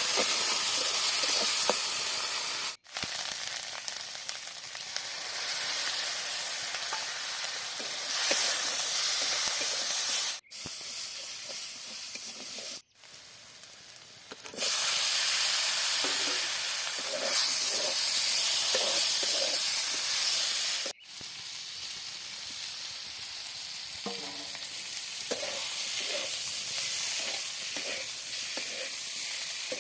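Curry ingredients frying and sizzling in a pan, with a spoon stirring and scraping. The sizzle cuts off sharply four times and comes back at a different loudness.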